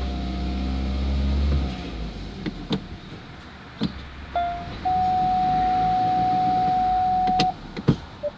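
A car engine running, then shutting off about a second and a half in. A few clicks follow, then one long steady electronic beep lasting about three seconds, then more clicks.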